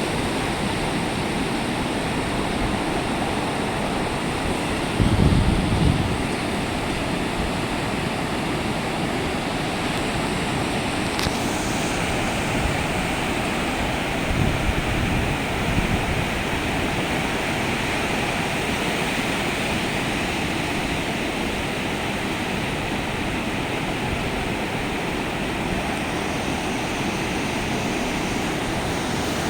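Steady rush of sea surf breaking on the beach, with wind buffeting the microphone about five seconds in and again around fifteen seconds.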